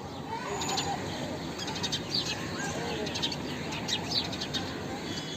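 House sparrows chirping: short, high chirps in quick clusters, over low background noise.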